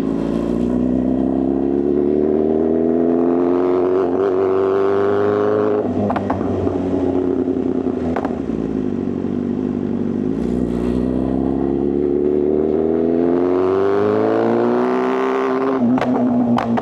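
Inline-four superbike engine accelerating under throttle, its note rising for several seconds, then falling away sharply about six seconds in, climbing again to a high peak near fifteen seconds. Sharp cracks from the exhaust come a few times, two of them near the end.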